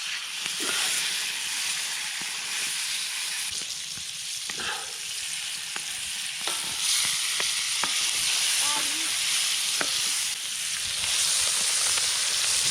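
Steak sizzling as it fries over a campfire: a steady hiss with a few scattered pops.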